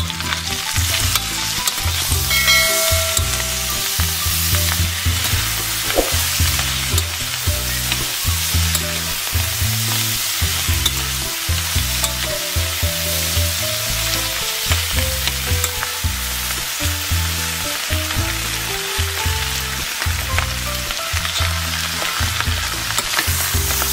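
Ground beef and butter-toasted dry egg noodles sizzling in a hot stainless-steel pot, stirred together with a spoon: a steady frying hiss with the scrape and shuffle of the stirring.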